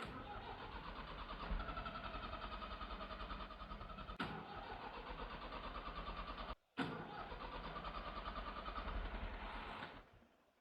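Leyland tractor's diesel engine cranking steadily on the starter without firing, with one short break about two-thirds through. It is failing to start, which the owner fears is the motor having locked up after years without service.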